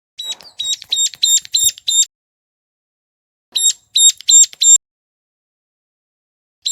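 Hill prinia (ciblek gunung) call: sharp, high, evenly repeated notes, a run of six at about three a second, then a pause and four more, with one more note at the very end.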